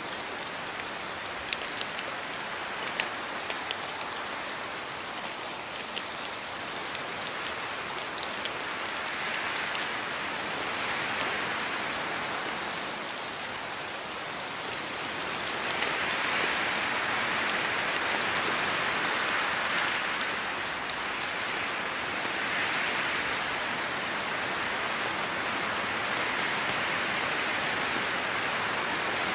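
Steady rain falling, with sharp single drops clicking through the first several seconds; the downpour then grows louder and eases again in slow swells.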